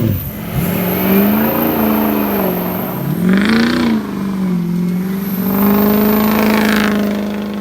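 Tuned, deleted 6.0 Powerstroke V8 turbo-diesel being revved: it climbs and drops twice, then is held at steady high revs for a few seconds before easing off near the end.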